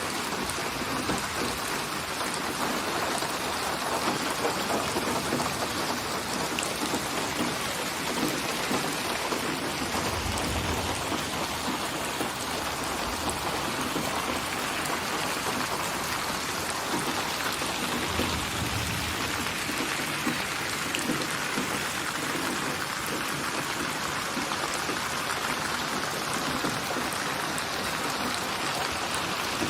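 Steady rain falling, an even hiss of drops that does not let up, with a brief low rumble twice, about ten and eighteen seconds in.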